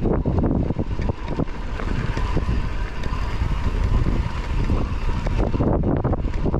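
Wind buffeting a chest-mounted GoPro's microphone while riding a mountain bike, a loud constant rumble, with frequent knocks and rattles from the bike going over rough ground.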